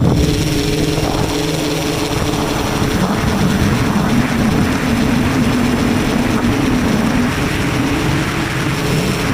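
Tricopter's brushless motors and propellers running in flight, a steady drone whose pitch wavers up and down with the throttle.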